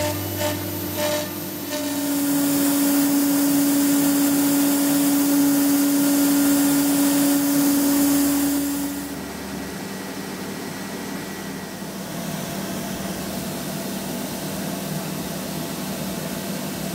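CNC router's air-cooled Colombo spindle running at speed and cutting sheet stock: a steady whine over loud hiss. About nine seconds in it gives way to a quieter, steady machine hum.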